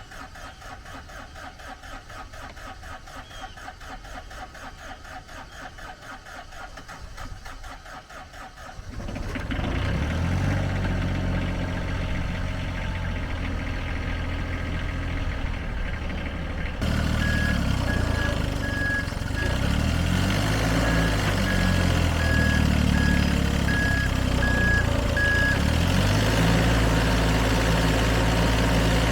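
An engine being cranked with a fast, even rhythm, catching about nine seconds in and then running steadily. From a little past halfway an intermittent high-pitched warning beep sounds over the running engine.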